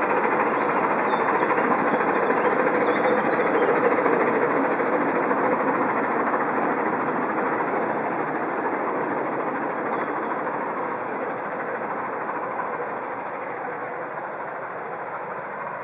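Miniature park railway train running along its track, a steady rolling rumble of wheels on rails that is loudest about four seconds in and grows slowly fainter as it moves away.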